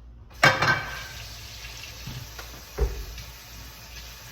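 Kitchen sink faucet turned on suddenly and running steadily, with a single knock of something set down partway through.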